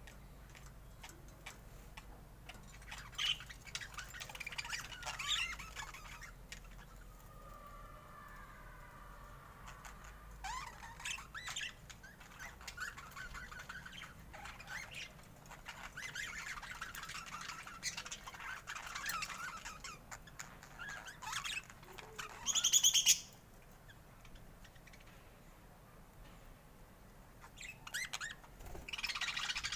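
Budgerigars chirping and warbling in quick, irregular bursts, with one louder, sharp call about two-thirds of the way through.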